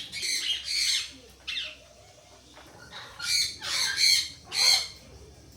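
A bird squawking: a run of harsh, grating calls, a few in the first second and a half, then three louder ones near the end.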